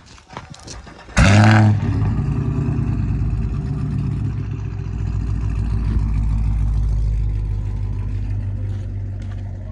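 An engine with an aftermarket exhaust starts about a second in with a brief loud flare, then settles into a steady idle with an uneven, pulsing beat.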